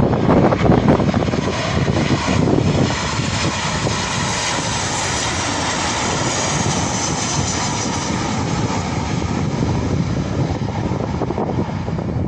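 Airliner passing overhead, a steady engine rush that is strongest in the middle and eases toward the end, over wind buffeting the microphone.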